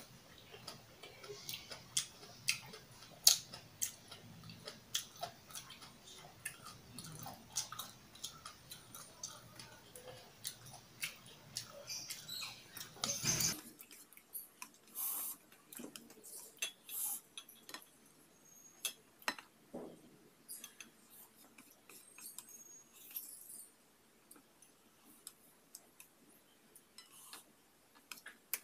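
Close-miked eating sounds: chewing kimchi and ramen, with many small wet mouth clicks and smacks at irregular intervals. A low background hum drops out about halfway through.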